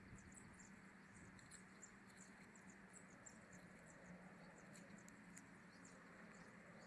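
Faint, scattered high chirps of small birds over a low steady hum.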